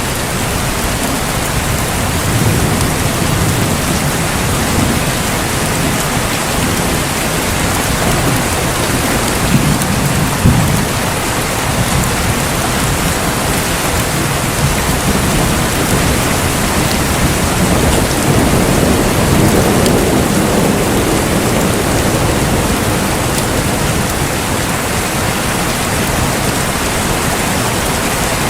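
Heavy rain falling steadily, with low rolls of thunder swelling under it a few times, most strongly about a third of the way in and again about two-thirds through.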